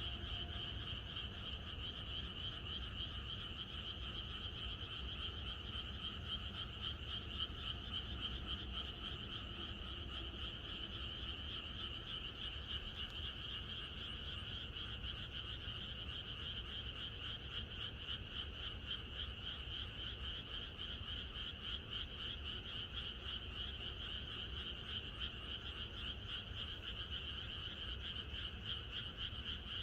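Chorus of many frogs calling together: a dense, unbroken mass of rapid, pulsing calls that holds steady throughout.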